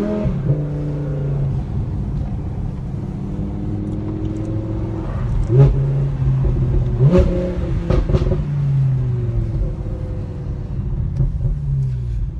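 Audi R8 V10 Plus's 5.2-litre V10 through a Brooke race exhaust with its valves open, finishing a rising rev and then running at a steady engine speed. Two quick throttle blips come about five and a half and seven seconds in, each with sharp pops and bangs from the exhaust, the sign of the custom pops-and-bangs tune.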